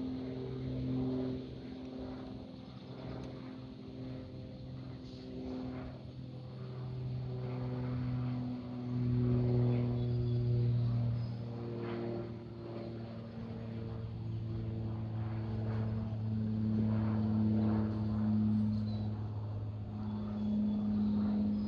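An aircraft's engines droning as it passes, a steady low hum with several tones that slowly shift in pitch, swelling a little about halfway through and again near the end.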